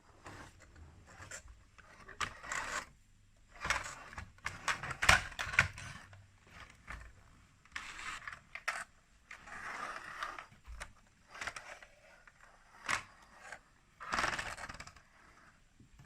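Plastic toy building pieces being handled and fitted together: irregular clicks, taps and short scraping rustles, loudest about five seconds in.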